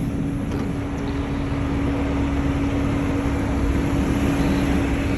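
Steady mechanical hum with one constant tone, running evenly throughout.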